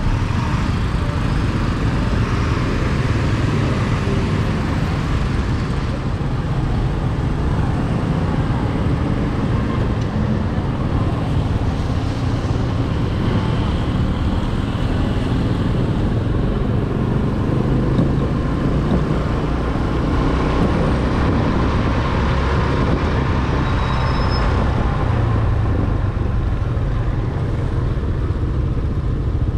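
Steady on-board riding noise from a Corven 110 Energy motorcycle on wet city streets: its small engine running under wind rush and the sound of surrounding traffic.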